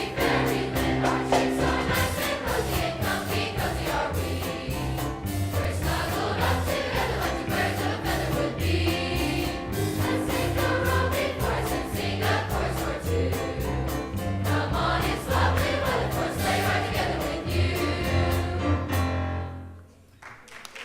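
Large mixed choir singing with instrumental backing: sustained bass notes and a steady beat. The music ends about 19 seconds in, and applause starts just before the end.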